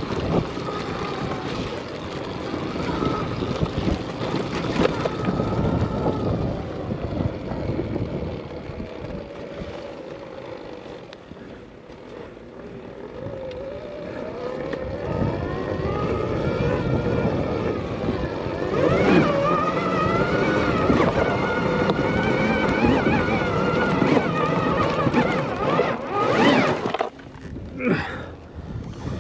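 Electric dirt bike (Arctic Leopard XE Pro) motor whining, its pitch rising and falling with the throttle over rolling tyre and trail noise. It is quieter for a few seconds near the middle, then louder through the second half.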